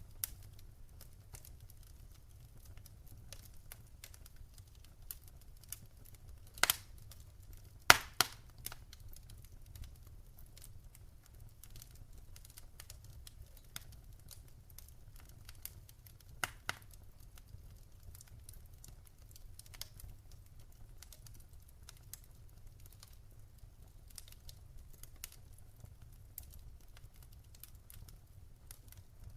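Wood fire in a fireplace crackling: scattered sharp pops and snaps over a faint low rumble of the flames, with a few louder pops about 7, 8 and 16 seconds in.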